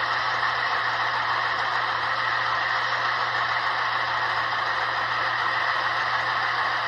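Onboard sound decoders of two N-scale Broadway Limited RSD-15 diesel models playing the diesel engine running sound through their tiny speakers, heard as a steady, hissy drone.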